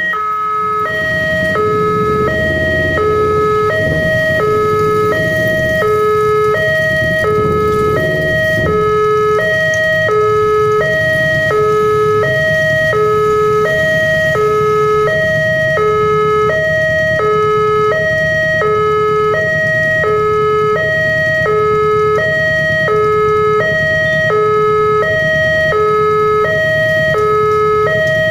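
Railway level-crossing warning alarm sounding continuously: an electronic two-tone signal alternating between a higher and a lower note, each note lasting about 0.7 s. A steady low rumble runs underneath and is a little louder in the first few seconds.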